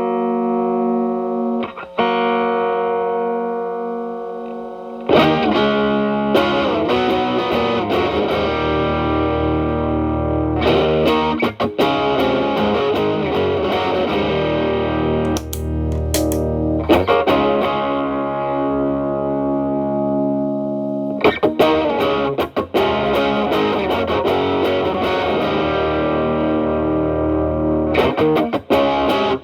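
Electric guitar, a Fender Telecaster, played through an Xotic BB overdrive pedal into a Marshall Valvestate amp's clean channel, with a mildly distorted tone. A held chord rings and fades over the first few seconds; then, about five seconds in, with the pedal's gain turned up to 12, denser, more driven chords and riffs start.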